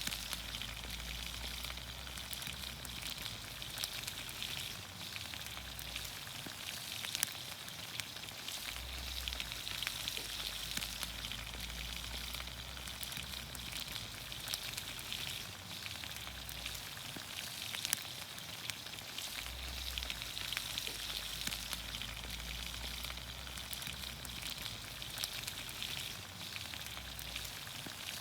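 Vegetables sizzling in olive oil over a campfire: a steady frying hiss with frequent small pops and crackles.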